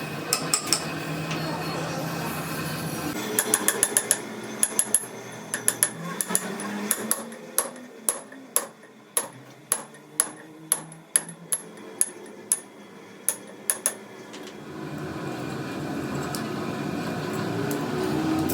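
Hammer striking metal: a quick flurry of blows, then a run of single ringing strikes about one a second, over a steady background hum that swells again near the end.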